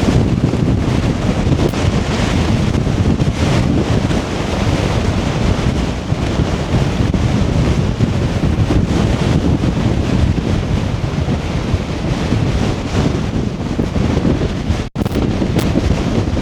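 Loud, strong wind buffeting the microphone as a steady low rumble, with one brief dropout near the end.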